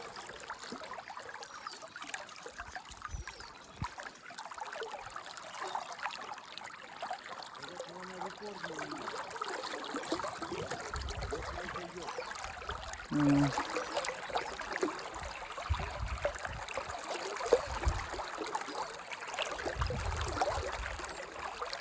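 River water running steadily, with low gusts of wind rumbling on the microphone now and then and a brief pitched sound about two-thirds of the way through.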